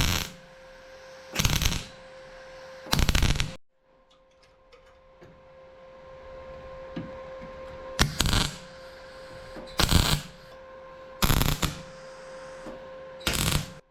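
MIG welder laying short tack welds on car body sheet metal: a series of brief crackling bursts a second or two apart, over a steady hum.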